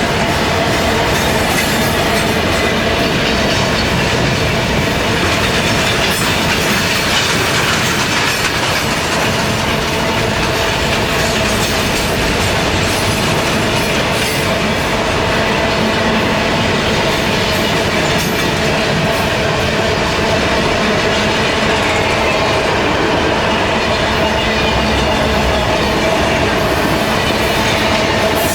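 Mauritanian iron-ore train, a very long string of freight wagons, running steadily with wagons clattering over the rail joints and a steady squeal of wheels against the rails.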